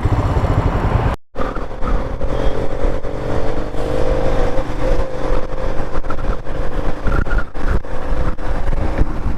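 A Royal Enfield Himalayan's single-cylinder engine running at highway speed. The sound drops out for a moment about a second in, and after that a steady whine runs alongside the engine.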